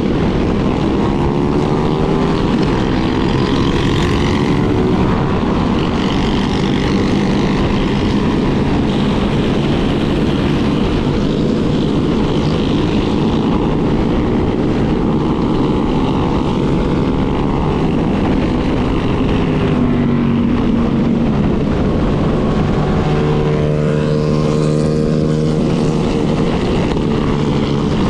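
Motorcycle engines running on the move over a steady rush of riding noise. Their pitch rises and falls as revs change, and near the end one engine holds a steady note for a few seconds.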